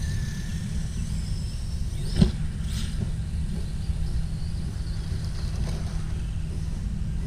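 Steady low rumble with the faint high whine of an electric RC car's motor in the first second or so, and a single sharp knock about two seconds in.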